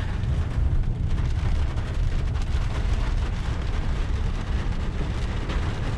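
Steady low rumble of a running vehicle engine, with an even hiss over it.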